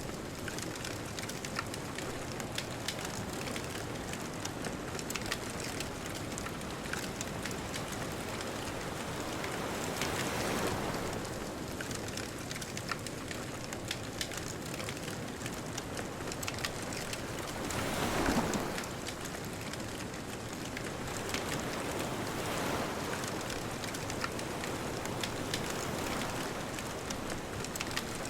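Beach bonfire crackling with frequent sharp pops over a steady hiss, while ocean waves wash in, swelling and fading three times, loudest about two-thirds of the way in.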